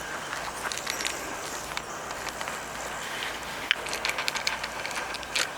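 Steady outdoor background noise with scattered light clicks and rustles, which come more often in the second half.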